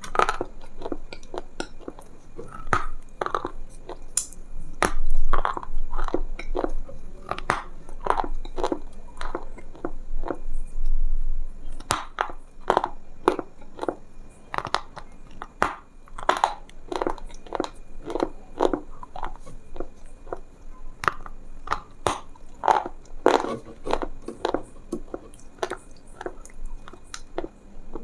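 Close-miked chewing of crunchy food: irregular crisp crunches about once or twice a second.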